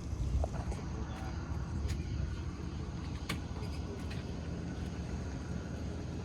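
An engine running steadily, a low rumble, with a few faint clicks over it.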